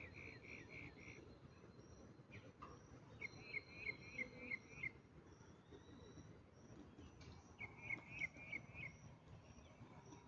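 Faint outdoor bird calls: three runs of five or six quick chirping notes, the first at the start, the next about three seconds in and the last about eight seconds in, over a faint high steady pulsing.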